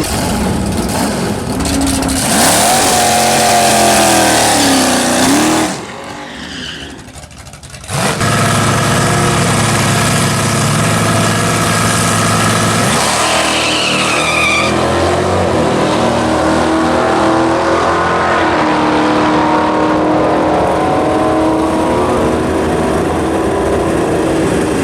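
Drag-racing cars' engines at full throttle as they leave the starting line and run down the strip, with sweeps in pitch. The sound drops off briefly about six seconds in, then comes back loud from about eight seconds on.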